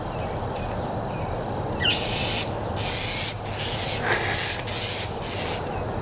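A bird's harsh scolding calls: a short chirp, then about six rasping notes of roughly half a second each, starting about two seconds in. It is the bird mobbing a cat. A steady low rumble runs underneath.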